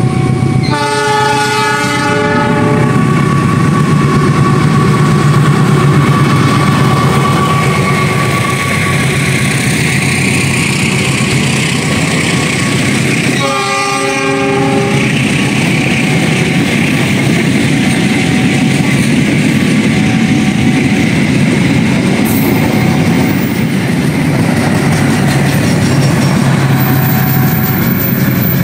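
Ciremai Express passenger train, hauled by a diesel locomotive, running past at speed. The locomotive horn sounds twice: for about two seconds near the start and for about a second midway. Under it runs the steady, continuous noise of the coaches' wheels on the rails.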